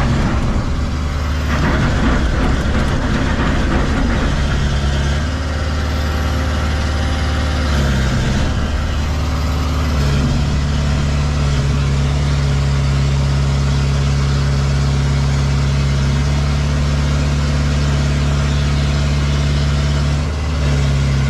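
A machine's engine running steadily at idle close by, its note shifting briefly for a few seconds before settling back.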